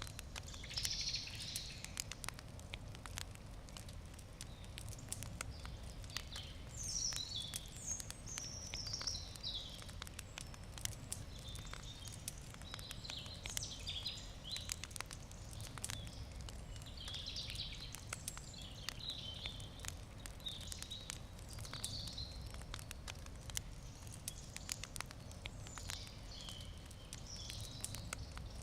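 Campfire wood crackling with frequent sharp pops, while birds sing in short repeated phrases throughout.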